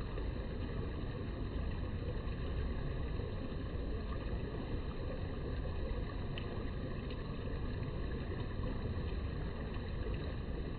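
Steady low rushing noise of river water, even throughout, with a faint short chirp about six seconds in.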